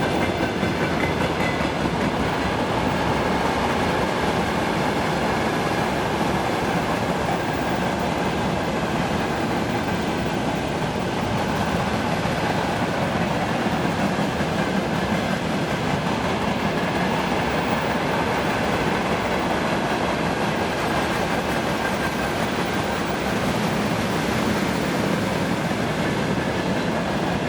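Freight train wagons rolling past, a steady rumble of steel wheels on the rails.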